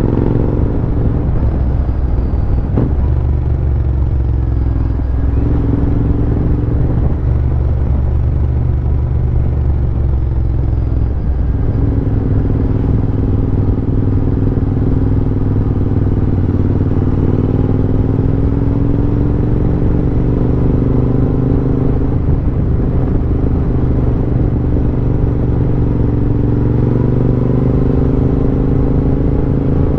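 Royal Enfield Interceptor 650's parallel-twin engine running under way, close to the microphone. The engine note dips and settles a few times early on, then drifts gently up and down as the throttle is eased and opened.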